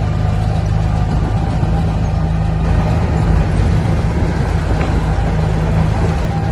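The diesel engine of heavy earthmoving machinery running steadily with a deep, even drone.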